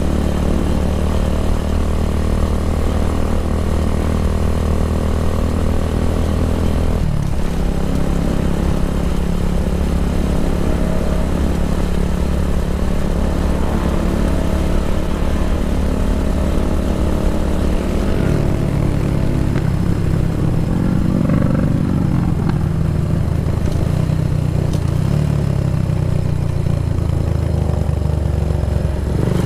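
Kawasaki W175's single-cylinder four-stroke engine running through an aftermarket racing exhaust, a loud, steady exhaust note. The engine speed changes abruptly about seven seconds in and again about eighteen seconds in.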